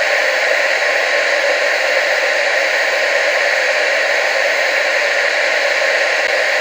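TV static: a steady, even hiss with no changes and very little deep bass.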